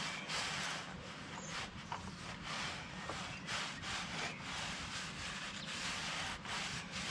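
Uneven rubbing or scrubbing strokes, a few a second, of something being worked back and forth by hand.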